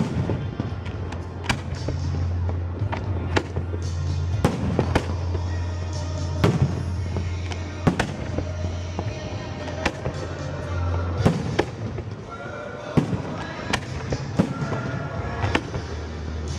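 Fireworks shells bursting in about a dozen sharp, irregularly spaced bangs over music with a steady low bass.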